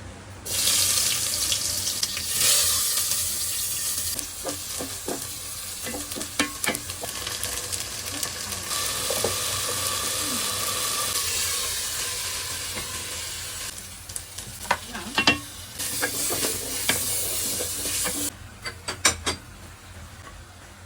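Food frying and sizzling in a hot pan while it is stirred, the spatula knocking against the pan now and then. The sizzle eases off briefly about two-thirds of the way through, then stops near the end, and a few more knocks follow.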